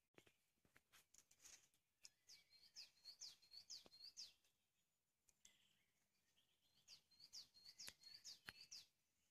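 A songbird singing two short phrases a few seconds apart, each a quick run of high, falling notes, with scattered faint clicks.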